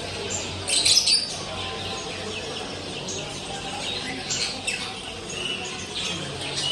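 Many caged birds chirping and squawking together, a dense mix of short high calls, with a louder flurry of calls about a second in.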